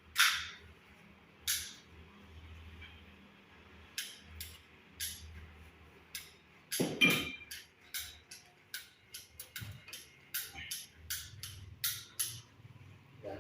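Irregular sharp clicks and knocks of hand tools and pipe fittings being handled and set down, with a louder knock about seven seconds in.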